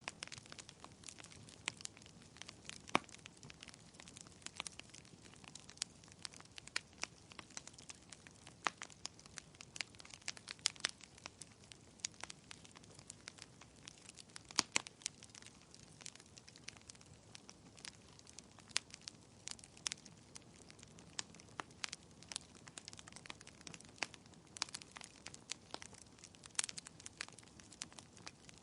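Wood fire crackling in a fireplace: a steady run of irregular sharp pops and snaps, some louder than others, over a low hiss.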